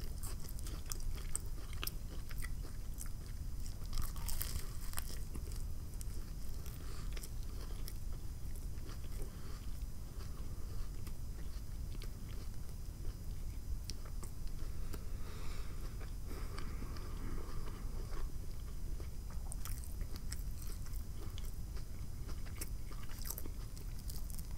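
Close-up eating sounds: biting into a toasted BLT sandwich with bacon and chewing it, with soft crunches and many small, sharp mouth clicks.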